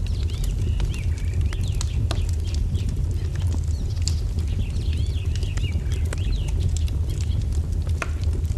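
Wood fire crackling with sharp irregular pops over a steady low rumble, while small birds chirp in quick runs of rising and falling notes, once near the start and again midway.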